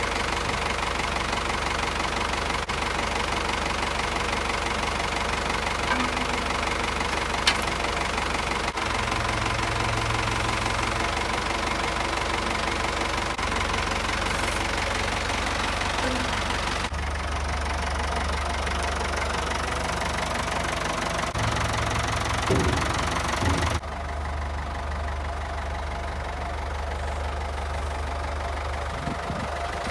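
Ford 5610 tractor's four-cylinder diesel engine running steadily, its sound shifting abruptly a few times.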